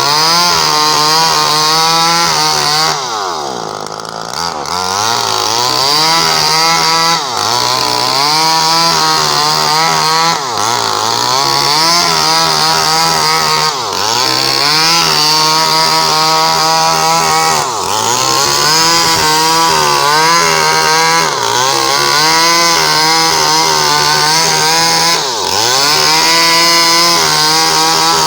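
Small Stihl two-stroke chainsaw running at high revs while cutting coconut-palm wood. The engine note sags and recovers about every three to four seconds, with a longer, deeper sag a few seconds in.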